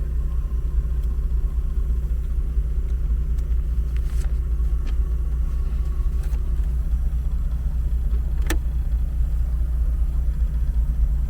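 A 1988 Chevrolet Opala running with a steady low rumble as it moves slowly, heard from inside the car. A sharp click about eight and a half seconds in.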